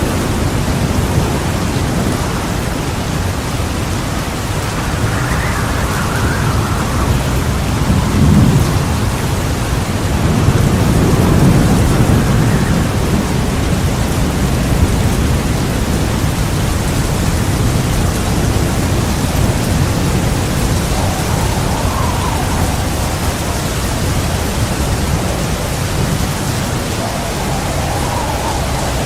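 Steady heavy rain with rolling thunder rumbling underneath, swelling loudest about eight seconds in and again around eleven to twelve seconds.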